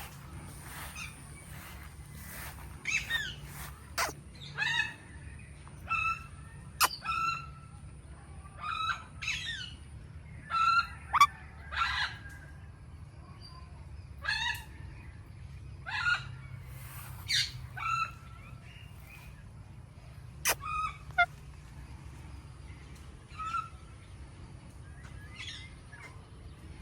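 Indian ringneck parakeet giving short, shrill calls, one every second or two, with pauses, becoming sparse in the last few seconds.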